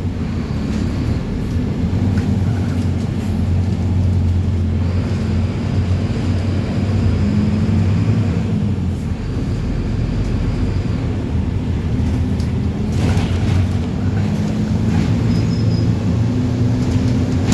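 Mercedes-Benz 1724L bus's diesel engine running steadily, its pitch rising and falling slightly, with a few brief knocks about thirteen seconds in.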